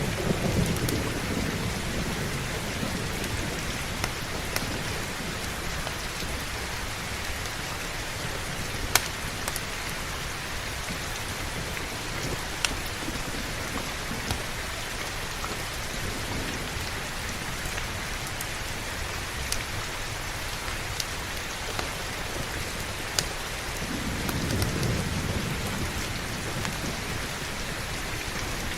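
Steady heavy rain, with low thunder rumbling that dies away at the start and rolls in again toward the end. A few sharp clicks stand out above the rain.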